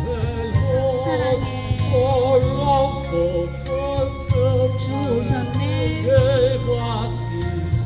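A Korean gospel hymn: a solo voice sings a melody with strong vibrato over instrumental backing.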